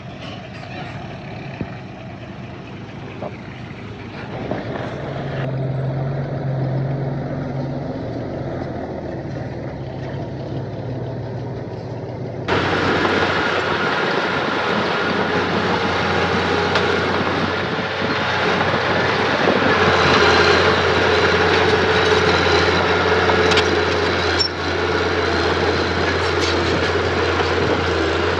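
Engines of earthmoving machinery running steadily. About twelve seconds in, the sound jumps abruptly to a louder, fuller engine noise.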